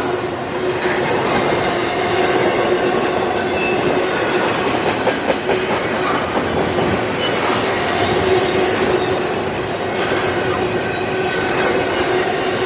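CSX intermodal freight train's cars rolling past, a steady din of wheels on rail with a steady ringing tone running through it.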